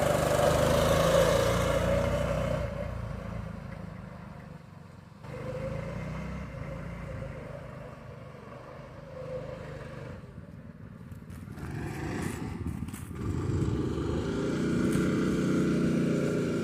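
Harbor Freight Predator 212 single-cylinder engine driving a small pickup. It runs at varying revs, fading away through the middle, and comes back louder near the end.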